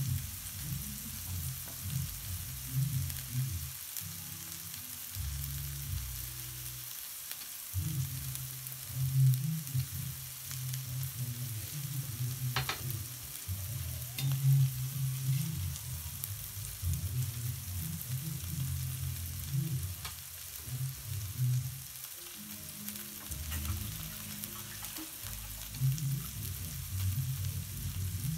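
Frikadellen frying gently in a little oil in a stainless steel pan on the lowest gas flame: a steady, soft sizzle, with an uneven low rumble underneath. About halfway through there is a light click of a spatula against the pan.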